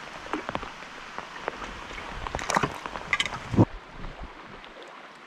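Rain pattering on a wooden drift boat and the river surface, with a cluster of louder knocks and splashes between about two and three and a half seconds in. The sound then drops suddenly to a softer steady rush of moving river water.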